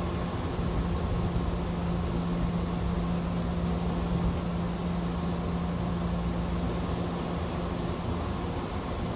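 Idling vehicle engines: a steady low hum with a constant drone.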